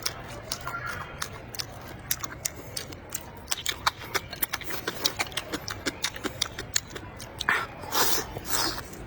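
Close-miked eating sounds: wet chewing, lip smacks and mouth clicks at an uneven pace, with a few louder, longer noisy sounds near the end.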